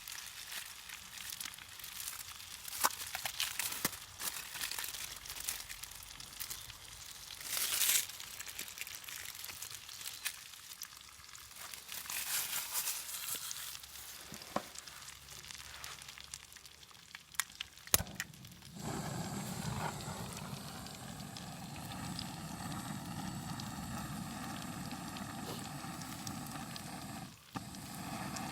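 Crinkling and rustling handling noise with scattered sharp clicks, then, after a loud click about two-thirds in, a steady rushing noise that carries on.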